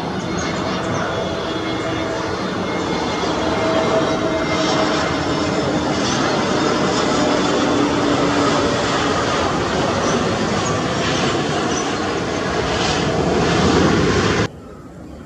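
Jet airliner's engines running, a loud steady roar with a faint held hum through it, rising slightly before it cuts off suddenly near the end.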